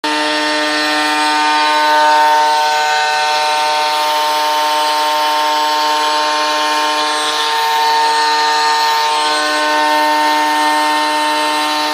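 CNC router spindle milling aluminium: a steady whine made of several held tones, with the cutting noise under it.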